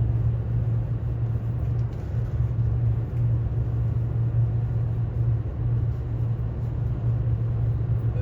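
Steady low rumble of a Kintetsu ACE 22000/22600 series limited express electric train running along the line, heard from inside the passenger car.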